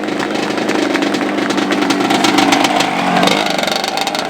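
Motocross motorcycle engines running hard, a steady, loud engine note throughout.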